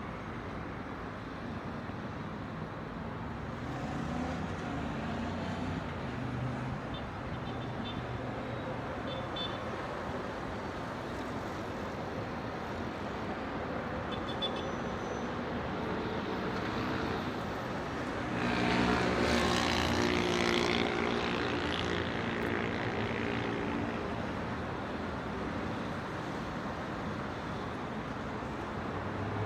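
City traffic noise: a steady hum of road traffic with vehicle engines coming and going, and one louder vehicle passing close about two-thirds of the way through.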